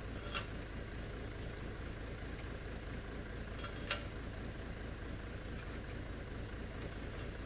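Diesel truck engine idling steadily with a low rumble, and two short sharp clicks, one right at the start and one about four seconds in.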